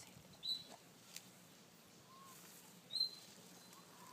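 A small bird chirping twice: two short, high chirps about two and a half seconds apart.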